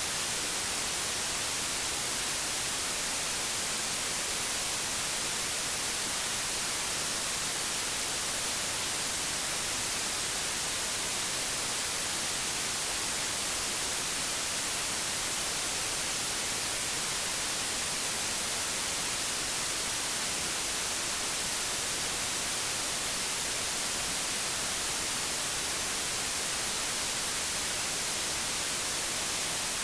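Steady hiss of old television static, even and unchanging, strongest in the high treble.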